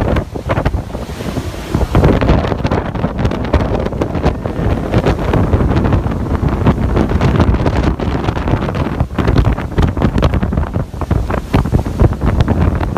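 Hurricane-force wind blowing hard across the microphone, loud and gusty, with frequent sudden buffeting hits.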